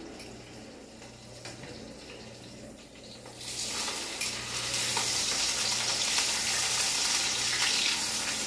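Chicken frying in a pan, sizzling; the sizzle swells about three and a half seconds in and stays loud.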